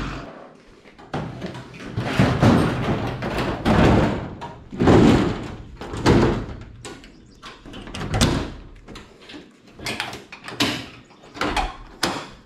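A series of bangs, clanks and rattles, about a dozen spread irregularly over twelve seconds, like doors and metal parts being handled in a shop.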